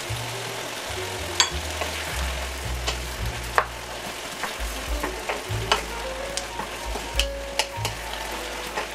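Ground beef, bell peppers and onions sizzling in a frying pan while a wooden spoon stirs them, with frequent short taps and scrapes of the spoon against the pan.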